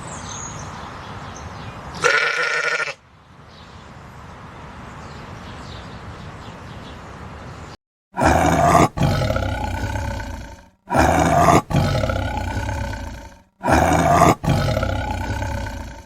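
Animal calls: one short call about two seconds in, then the same long, deep call played three times over with short gaps.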